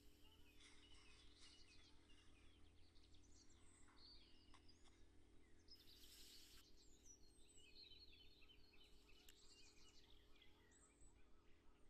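Very faint birdsong, scattered chirps that bend in pitch, over a steady low hum.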